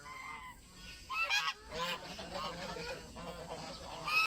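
Domestic goose honking, a run of about half a dozen loud calls one after another, with the loudest ones a little over a second in and just before the end: a defensive goose guarding its goslings.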